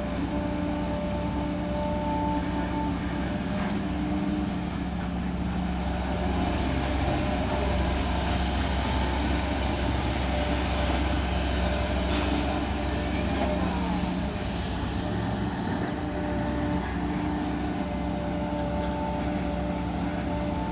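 Kobelco SK140 hydraulic excavator's diesel engine running steadily with a whine of held tones on top, growing louder for several seconds in the middle as it works.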